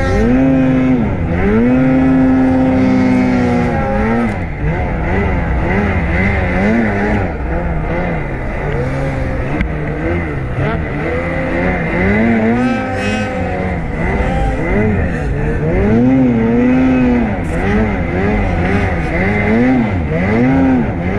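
Snowmobile engine revving up and down over and over as the throttle is worked, its pitch rising and falling every second or two.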